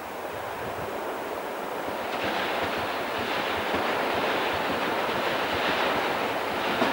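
A Newag Impuls 35WE electric multiple unit approaching along the track. Its running noise rises steadily as it draws nearer, with one sharp click just before the end.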